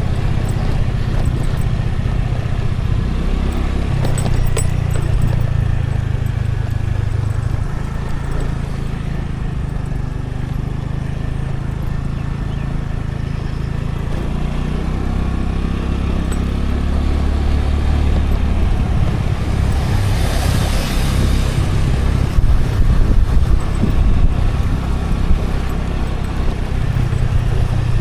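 Scooter riding, heard from the camera on the scooter: a small engine running with road noise, its low hum shifting in pitch. A broad hissing swell passes about twenty seconds in.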